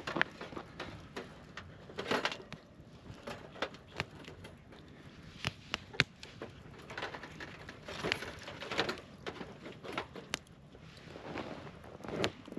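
Wood fire crackling in a portable fire pit: irregular sharp pops and snaps, one louder pop about six seconds in, over soft rustling.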